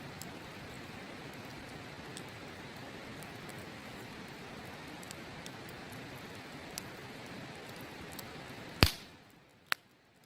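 Steady rush of a river with a wood campfire crackling faintly, then one loud sharp crack of burning wood about nine seconds in, after which the rushing drops away sharply, and a second crack just before the end.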